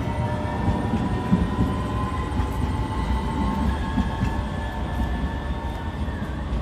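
Tram running on its rails: a steady low rumble with a few faint, steady high tones above it.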